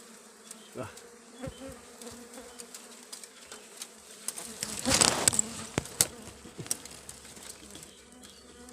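Dwarf honey bees buzzing steadily around a disturbed nest. Scattered small rustles and clicks of the comb being handled run under the buzz, with a louder rustle about five seconds in.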